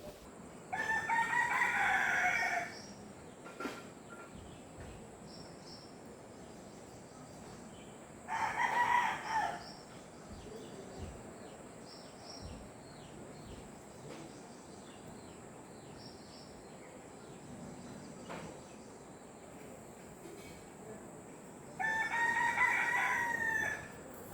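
Rooster crowing three times, each crow about two seconds long, with faint high bird chirps in the gaps between.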